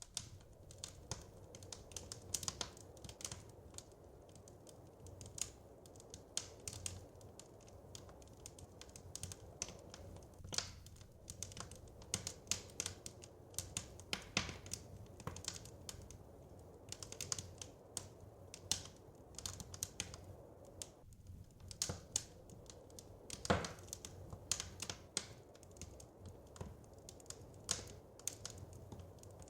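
Wood fire crackling: irregular sharp pops and snaps, at times several a second, over a low steady rumble. The loudest pop comes about two thirds of the way through.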